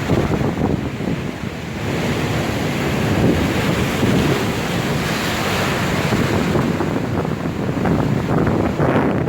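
Storm waves breaking on the shore in a continuous surging wash, with strong wind buffeting the microphone.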